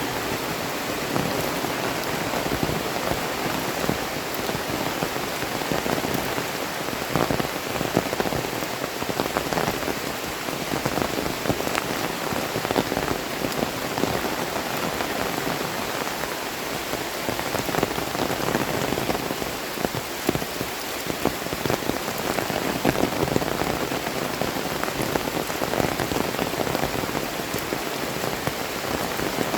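Heavy tropical rain falling steadily, a dense hiss with a constant patter of close drop impacts.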